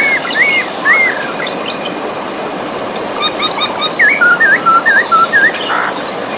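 Birds singing in short, repeated whistled notes over the steady rush of flowing river water. A few notes come in the first second, then a faster run of notes after about four seconds.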